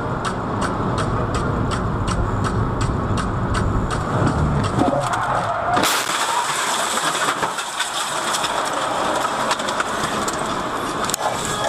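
Vehicle road and engine rumble with a fine, even ticking about three times a second. About six seconds in it changes abruptly to a thinner, hissier noise with much less low rumble.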